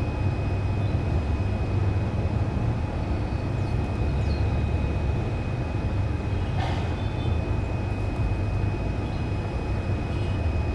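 A steady low rumble with a thin, steady high tone over it. A few faint, short bird chirps come through about four and seven seconds in.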